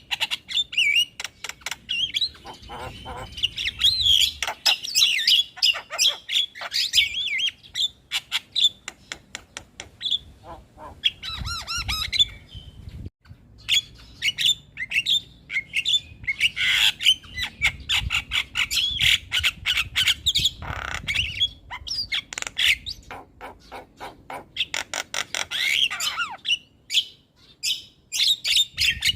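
Javan myna singing non-stop: a dense run of harsh squawks, rapid rattling clicks and short chattering whistles, with a brief break about thirteen seconds in.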